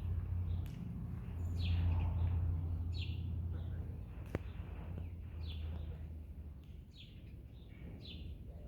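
A small bird chirping repeatedly: short, high, falling chirps about once a second, over a steady low rumble. A single sharp click comes about four seconds in.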